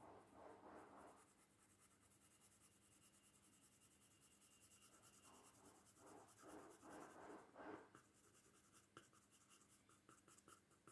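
Faint scratching of a pencil on paper, shading in short strokes. There is a brief run of strokes at the start and a cluster about six to eight seconds in, with a few light ticks near the end.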